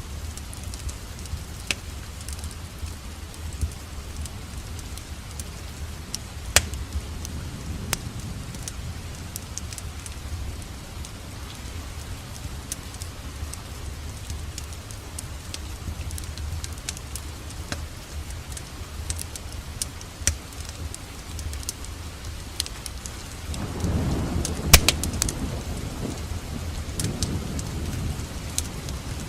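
Steady rain together with the sharp crackles and pops of a wood fire in a fireplace, and a low rumble that swells for a few seconds late on.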